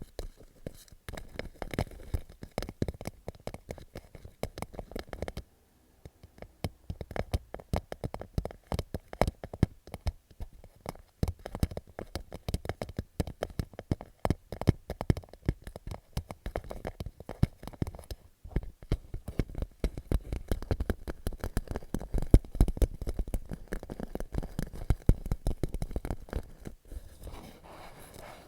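Fingertips and nails tapping and scratching quickly on a clear plastic pouch, a dense, irregular patter of light taps with a short pause about five and a half seconds in. It sounds like popcorn popping.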